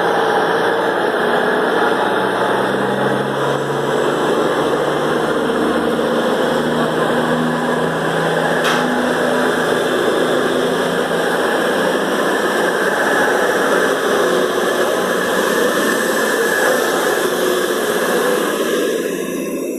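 Class 220 Voyager diesel multiple unit pulling away under power, its underfloor diesel engines running with wheel and rail noise in a steady, loud rumble. It cuts off suddenly near the end.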